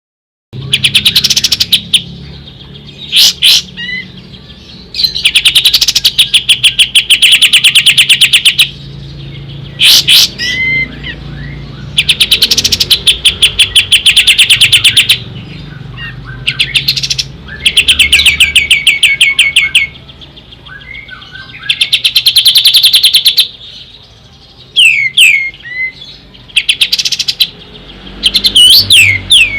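Kapas tembak (a triller) singing: loud, rapid rattling trills of many quick notes, each lasting one to three seconds and repeated every few seconds, with short sharp whistled sweeps in between. A low steady hum runs underneath.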